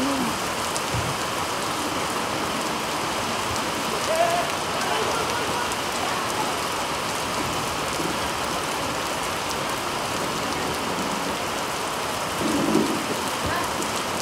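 Heavy rain falling steadily, with a brief voice about four seconds in and another near the end.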